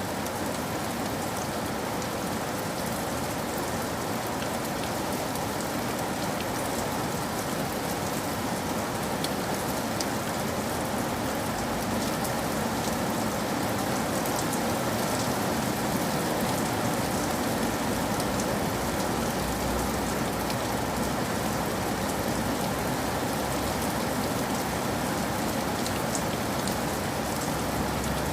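Steady rain falling on a roof, an even, unbroken hiss of raindrops.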